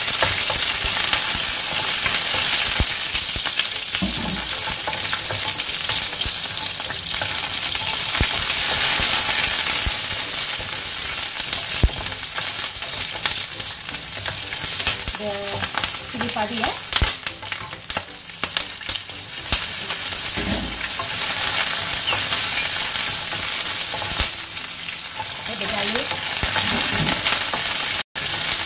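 Chillies and garlic sizzling in hot oil in a non-stick wok, stirred with a wooden spatula that scrapes and knocks against the pan. A steady frying hiss, broken for an instant near the end.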